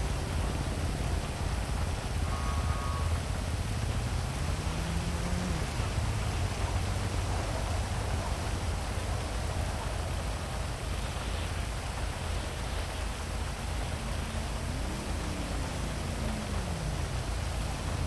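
Heavy rain hissing steadily over a low city traffic rumble. Twice a vehicle's engine note rises and then falls as it passes, about four seconds in and again near the end.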